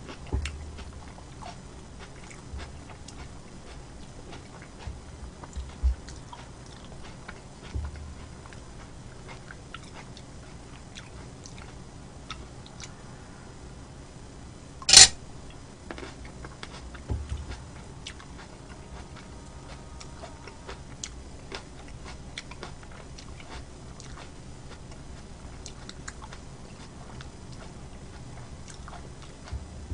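Close-miked mouth sounds of chewing and biting food, with many small wet clicks and a few low thumps. One loud, sharp noise about halfway through stands out above the rest.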